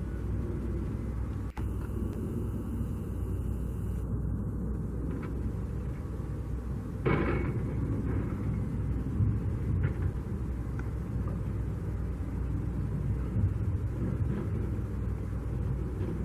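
Steady low outdoor rumble that wavers in level, with one brief rushing burst about seven seconds in.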